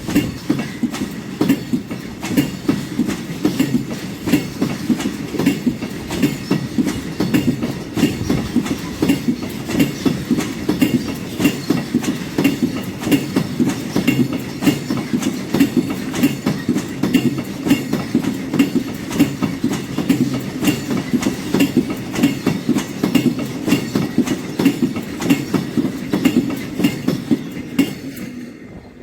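Freight train wagons rolling past close by, a steady rumble with the rhythmic clickety-clack of wheels striking the rail joints. The sound stops abruptly at the very end.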